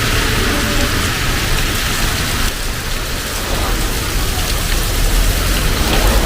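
Heavy rain falling in a steady hiss, with a low rumble that grows louder near the end.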